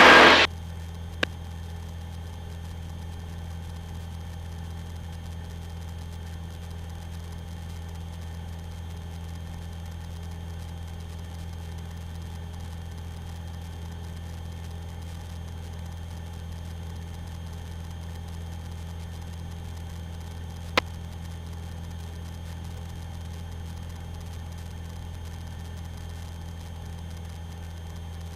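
Light aircraft's engine droning steadily in cruise, heard through the headset intercom as an even low hum with hiss. A radio transmission cuts off just at the start, and there are two short clicks, one about a second in and another about three-quarters of the way through.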